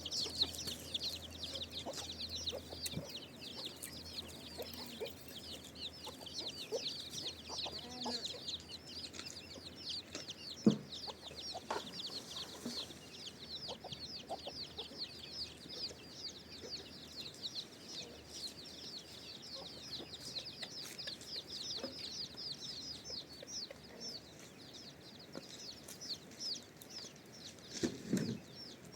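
A dense stream of high, short chirping bird calls, many overlapping. There is a single sharp knock about ten seconds in and a brief lower sound near the end.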